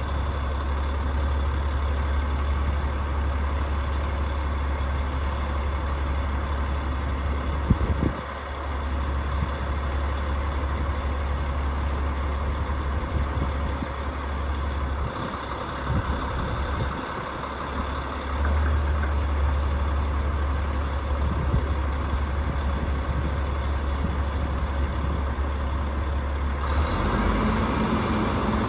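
Rooftop HVAC unit running with a steady, loud mechanical drone and a deep rumble that dips briefly twice. Near the end the deep rumble stops and a higher steady hum takes over.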